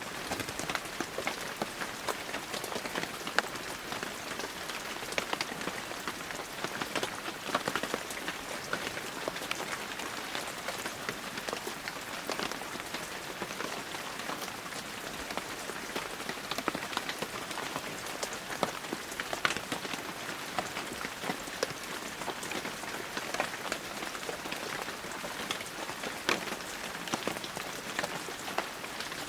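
Heavy rain falling steadily, a dense hiss with many individual drops spattering on surfaces.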